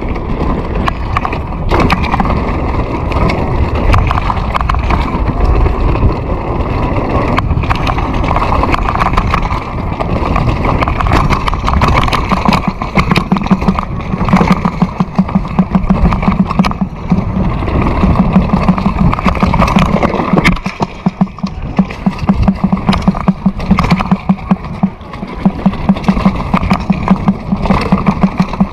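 A vehicle engine running during a ride, with wind rumbling on the microphone. From about halfway in, a steady low pulsing beat comes through.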